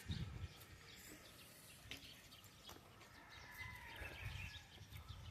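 Quiet outdoor ambience with faint, distant bird calls and a few soft clicks and thumps.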